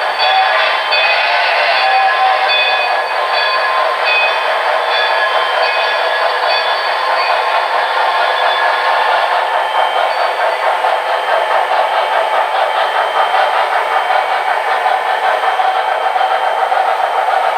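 Model trains running on an HO-style club layout: a steady, fast, even rattle of small wheels and motors, with steady high tones over it in the first half that fade out about halfway through.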